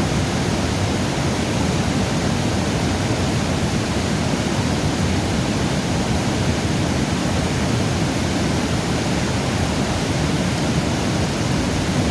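Steady rushing of river water, a loud even noise that keeps up without change.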